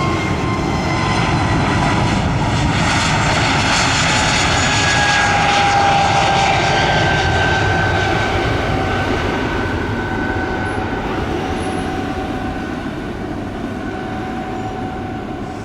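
Jet airliner passing close, its engines making a loud rushing noise. The engine whine drops in pitch as it goes by, and the sound swells to a peak about six seconds in, then slowly fades.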